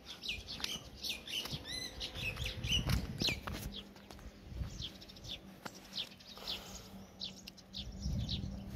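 Small birds chirping: many short, high, falling chirps, thickest in the first few seconds and again later on.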